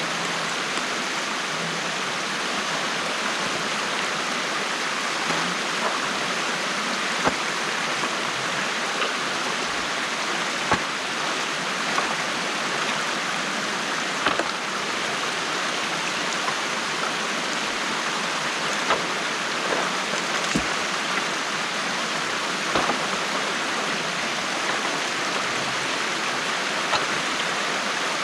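Stream water rushing steadily through a breach in a beaver dam, with a scattering of short, sharp knocks and splashes.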